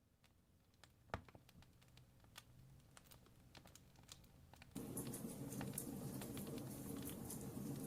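Campfire crackling: scattered sharp pops and snaps, faint at first and slowly growing, then a sudden jump to louder, denser crackling over a steady low rush of flames about two-thirds of the way through.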